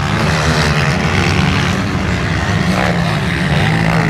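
Motocross bike engines running on the track: a loud, continuous engine drone whose pitch wavers up and down with the throttle.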